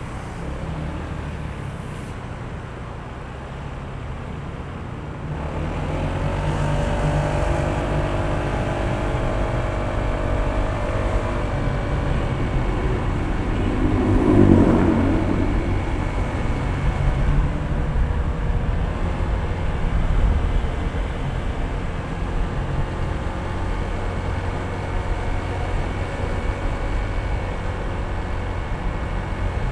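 Honda ADV160 scooter's single-cylinder engine running under way, with low road and wind rumble. It picks up about five seconds in, its pitch easing down over the following seconds, with a brief louder swell about halfway through.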